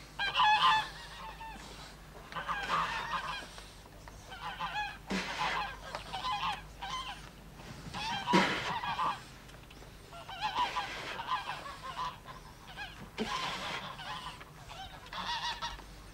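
Birds honking, short calls or runs of calls repeating every second or two.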